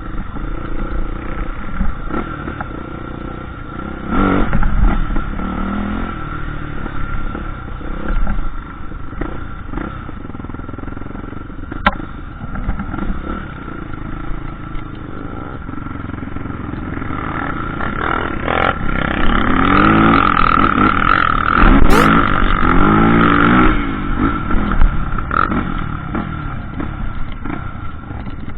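Single-cylinder trail motorcycle engine running off-road, its revs rising and falling as the throttle is worked, with the loudest run of revving about two-thirds of the way through. Clattering and knocks from the bike over rough ground sit under the engine.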